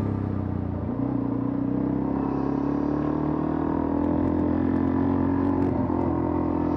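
Suzuki DR-Z400E single-cylinder four-stroke engine running under way at a steady pace, its pitch edging up slightly over the first few seconds.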